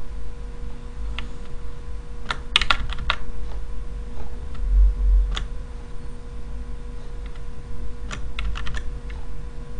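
Computer keyboard typing: scattered keystrokes, with a quick run of several about two and a half seconds in and another near the end, over a steady low hum.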